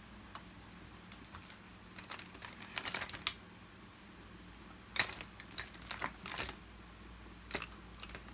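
Light, irregular clicks and taps of small plastic vacuum-cleaner parts and hand tools being handled, coming in short clusters.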